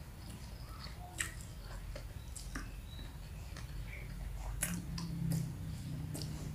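Close-up chewing of a mouthful of fried instant noodles, with scattered small wet mouth clicks.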